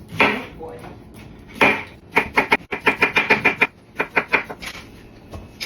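Knife cutting cucumbers on a cutting board: two single cuts, then a fast run of about a dozen chops, then a few more cuts.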